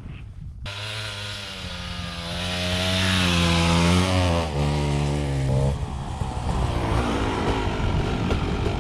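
Dirt bike engine pulling under acceleration, its pitch rising steadily, then dropping about four and a half seconds in as with a gear change. From about six seconds on it turns into a rougher, noisier engine and riding sound.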